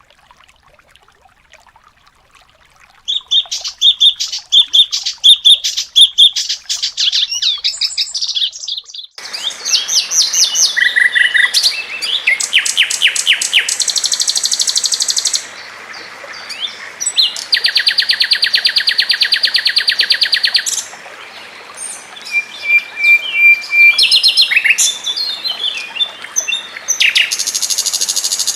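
Recorded songbird song, several clips spliced together: after a brief quiet moment comes a fast, varied song of high chirping notes. About nine seconds in, it cuts to another recording with background hiss, quick chattering phrases and long rapid buzzing trills.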